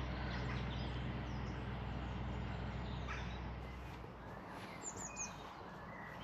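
Wild birds singing and chirping, with a quick run of high falling notes about five seconds in, over a low steady hum that stops a little over halfway.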